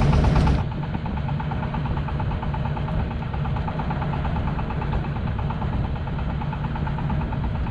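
Fishing boat's engine running steadily with a low, even throb, becoming a little quieter and duller about half a second in.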